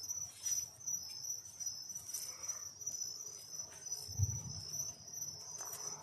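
Crickets chirping steadily in a high, pulsing drone, with a soft low thump about four seconds in.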